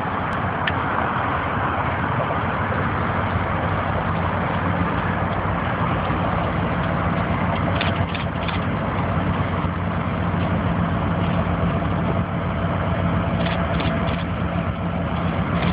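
Diesel-electric locomotives running at low speed, a steady engine drone with a constant low hum. A few brief higher-pitched squeaks come through about halfway and again near the end.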